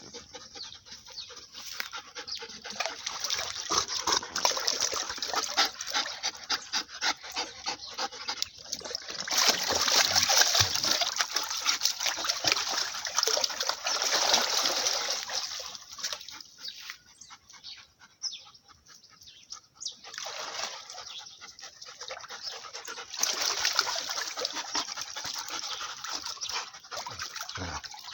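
Dogs playing in water: splashing and sloshing with the odd dog sound. It is loudest about a third of the way through and goes quieter for a few seconds past the middle.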